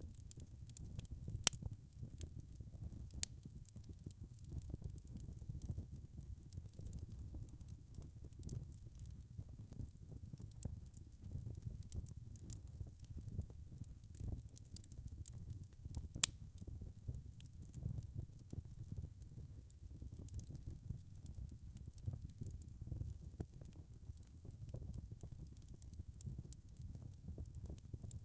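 Wood fire crackling: a low, steady rumble of flames with scattered sharp pops. Two pops stand out, about a second and a half in and about sixteen seconds in.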